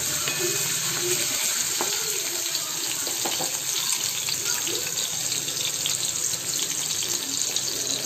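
Peeled grapes, drained but still wet, frying in a little hot oil in a metal kadai: a steady sizzle with small crackles, stirred now and then with a wooden spatula.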